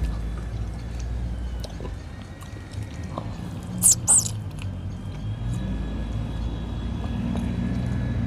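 Person eating by hand: chewing with small wet mouth clicks, and two sharp sucking smacks close together about four seconds in as food is sucked off the fingers.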